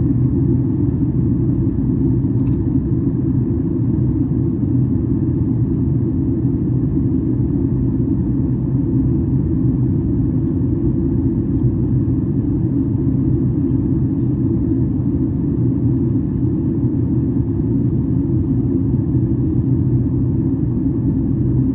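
Steady low cabin rumble inside a Boeing 737 MAX 8 in flight, the noise of its CFM LEAP-1B engines and the airflow over the fuselage heard from a window seat. It holds even, with no change in pitch or level.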